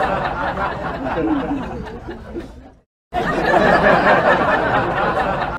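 A group of people laughing and chattering all at once. It fades away about two and a half seconds in, breaks off to silence, and starts again about three seconds in.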